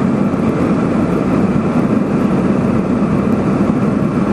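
Steady, even cabin noise of a jet airliner in cruise flight, heard from a window seat behind the wing engine: engine drone and rushing air, with a low hum.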